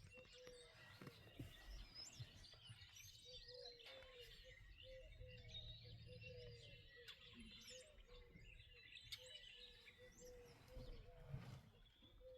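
Faint birds chirping and calling, with a short low note repeating about twice a second throughout.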